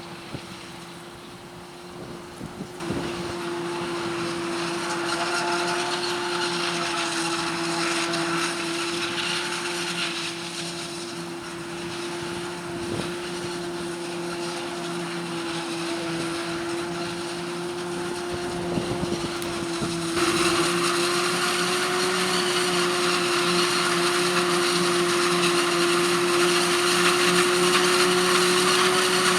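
Claas Jaguar 840 forage harvester running with a steady whine, growing louder and harsher about 20 seconds in.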